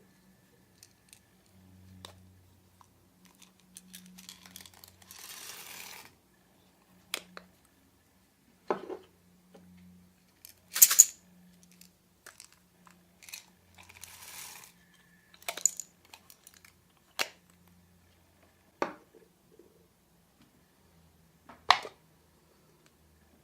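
Glossy slime being worked by hand with things mixed into it: a series of separate sharp pops and clicks, the loudest about 11 s and 22 s in, with two stretches of soft hissing rustle between them.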